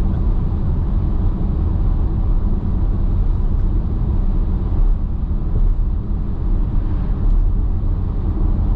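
Steady low road and tyre rumble with engine hum, heard inside a car's cabin at highway speed on dry pavement.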